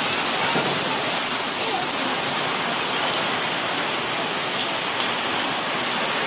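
Heavy rain falling steadily onto puddled ground, a dense, even patter of drops.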